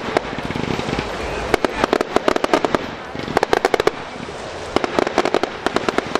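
Aerial fireworks bursting, with clusters of sharp crackling pops coming in several rapid volleys about a second apart.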